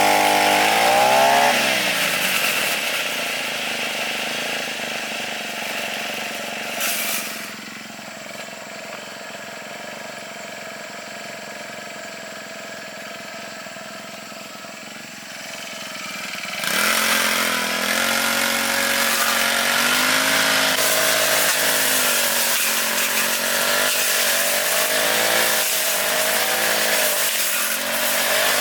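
Lawn mower engine running and revving as it cuts grass. It revs up at the start and runs quieter through the middle. Just over halfway in it goes loud again, its pitch rising and dipping over and over as it works.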